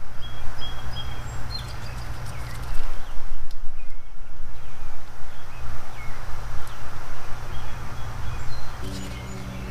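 Ambient outdoor sound: a steady low rumble with small birds chirping in short high notes, and a few light clicks.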